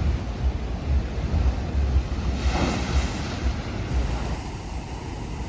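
Atlantic ocean surf, with one wave breaking in a rushing wash about halfway through, over a low rumble of wind buffeting the microphone.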